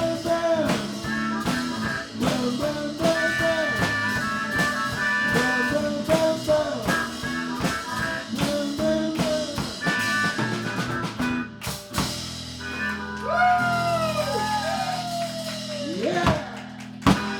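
Live blues band with guitar and drum kit playing the close of a song: a driving beat with bent guitar notes, then a held final chord about twelve seconds in with sliding guitar lines, and a last sharp hit near the end.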